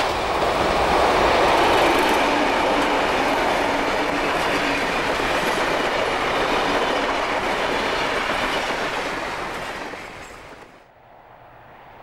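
Diesel locomotive-hauled passenger train passing close by: loud, steady locomotive and carriage running noise on the rails. It fades away, and about eleven seconds in it drops to a much quieter, more distant train sound.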